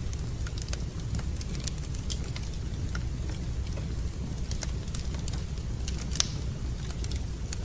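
Wood fire burning in a fireplace: irregular sharp crackles and pops over a steady low rumble, with one louder pop about six seconds in.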